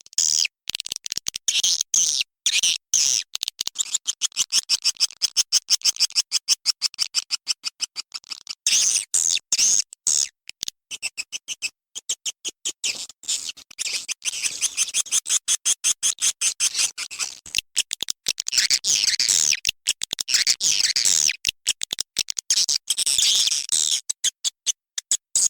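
Swiftlet calling-sound recording: rapid, high twittering chirps of swiftlets, many a second, repeatedly cut off by short silent gaps, a lure call played to draw swiftlets into a swiftlet house.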